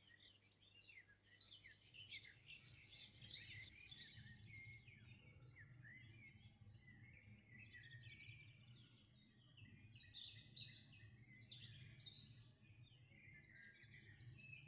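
Faint chorus of several songbirds singing: many short, overlapping chirps and trills, over a low steady rumble.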